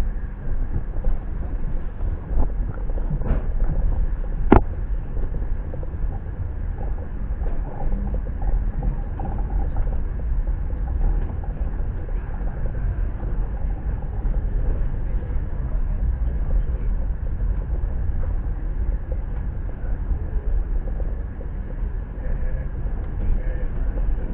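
Steady low rumble of a train, with two sharp knocks about three and four and a half seconds in.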